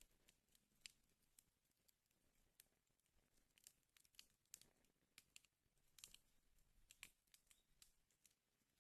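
Wood fire in a fireplace crackling faintly, with irregular small pops and snaps.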